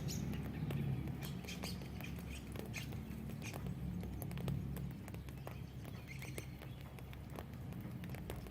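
Raindrops dripping and pattering close by in irregular light ticks, over a low rumble that eases off about halfway through, with a few faint bird chirps.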